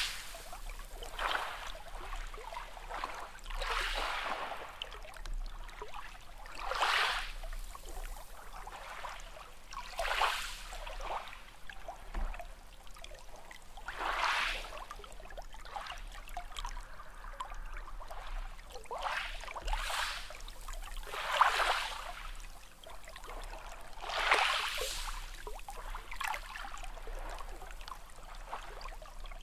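Small sea waves splashing and washing in, a short swish every two to three seconds over a steady hiss of water.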